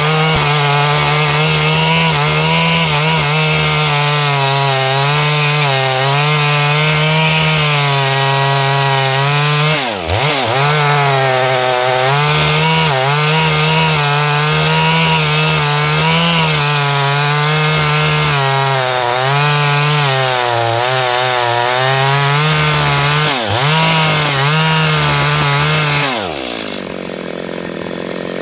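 Chainsaw running at high revs and cutting wood, its pitch wavering under the load, with two brief dips in revs. About two seconds before the end it drops off to a much quieter, lower sound.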